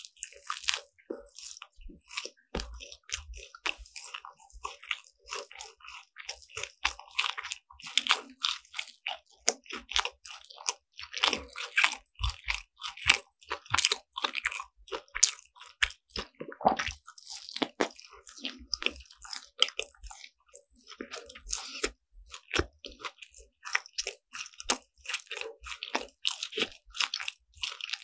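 Close-miked biting and chewing of crisp croffles (croissant-dough waffles), a dense, irregular run of crunchy crackles.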